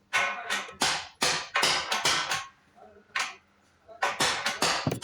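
A hammer striking metal: about a dozen sharp, ringing knocks in quick runs, with pauses of under a second between the runs.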